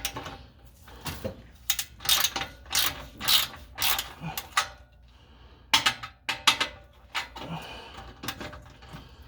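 Hand ratchet wrench clicking in uneven runs of strokes, with a short pause about halfway, as a stubborn exhaust bolt is worked loose by hand.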